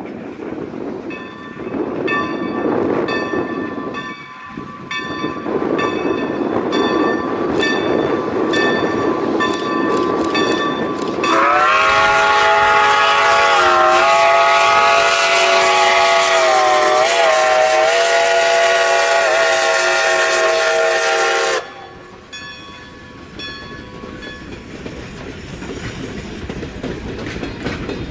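A train passing with a rapid rhythm of wheel clicks over the rail joints and a steady ringing tone from the wheels. About eleven seconds in, a locomotive's multi-note chime horn sounds one long blast of about ten seconds and cuts off sharply, after which the wheels carry on clicking more quietly.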